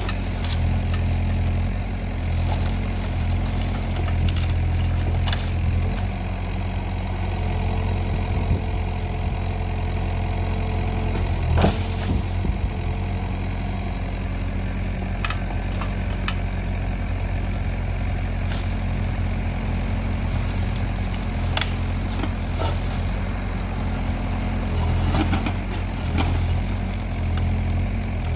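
Kubota excavator's diesel engine running steadily under hydraulic load, swelling and easing as the grab works. Occasional sharp knocks as the grab handles logs, the loudest about halfway through.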